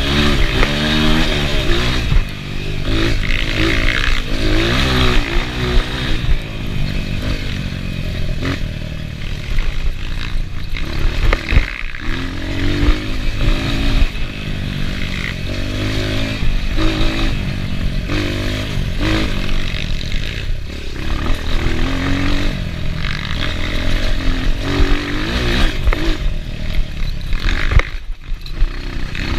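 Enduro dirt bike engine revving up and easing off again and again as it is ridden, with scrapes, clatter and a sharp knock about eleven seconds in.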